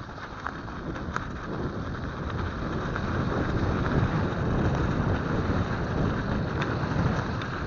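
Wind rushing over an action camera's microphone while riding a mountain bike, a dense low rumble that grows louder over the first few seconds and then holds, with a few small clicks and rattles.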